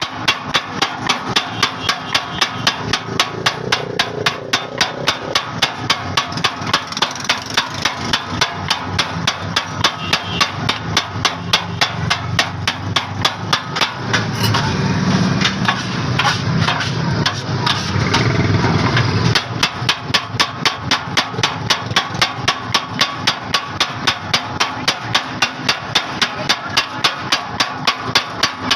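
Steady, rapid knocking, about three to four knocks a second without a break, like a metal blade or spatula chopping on a board or griddle. A louder low rumble joins between about 14 and 19 seconds in.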